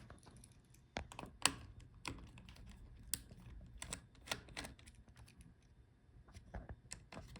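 A screwdriver working the small screws that hold a laptop's cooling fan and heatsink, heard as light, irregular clicks and taps.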